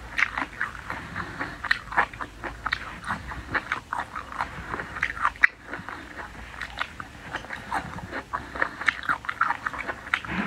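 Close-up mouth sounds of eating: wet chewing with many irregular crunchy bites, from a mouthful of cold-dressed chicken feet and bamboo-shoot slices.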